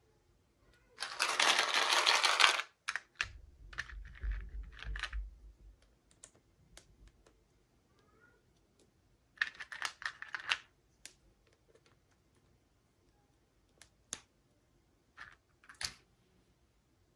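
Toy packaging being handled by hand. About a second in there is a loud crinkling rustle of plastic packaging, then soft thuds and scattered sharp clicks and taps, with a cluster of them near the middle.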